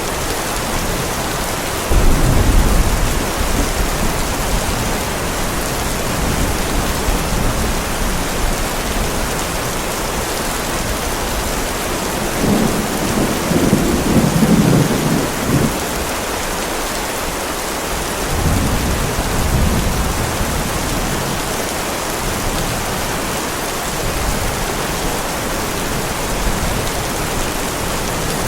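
Heavy rain falling steadily, with thunder: a sudden loud peal about two seconds in, a longer rumble around the middle, and a weaker rumble a few seconds after it.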